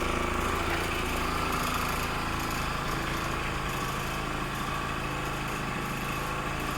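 Honda Dio AF27 scooter's 50cc two-stroke single-cylinder engine running steadily.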